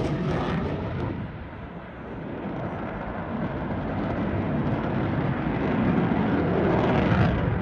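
An aerobatic airplane's engine drone as the plane flies its routine, fading briefly about two seconds in and then building steadily as it comes back around before easing off at the end.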